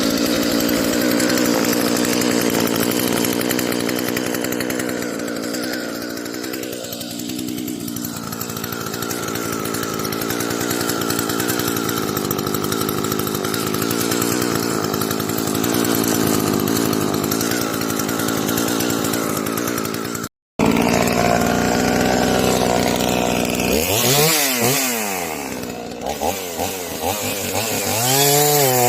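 Efco MT3710 two-stroke chainsaw engine running at a steady speed for about twenty seconds, then, after a brief break, revved up and down repeatedly in quick waves of the throttle.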